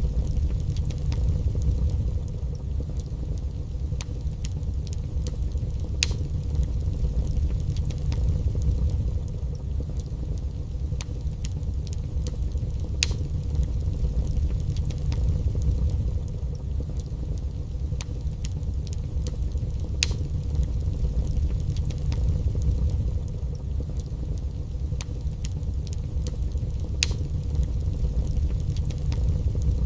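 Wood fire burning in a fireplace: a steady low rumble with faint crackling and sharp, irregular pops every few seconds.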